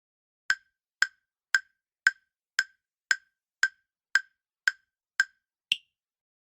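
Countdown timer sound effect: eleven sharp, evenly spaced ticks, about two a second, the last one higher in pitch, marking the time to answer a quiz question.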